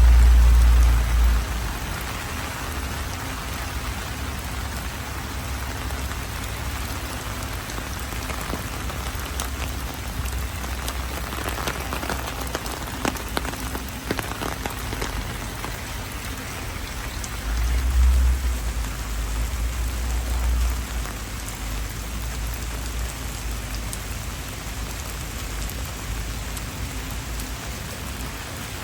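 Heavy rain falling steadily. A low rumble from strong wind buffeting the microphone comes at the start and again about two-thirds of the way through.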